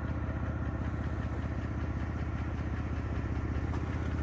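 A car engine running steadily at an even speed, heard from inside the car: a constant low, pulsing hum with no revving.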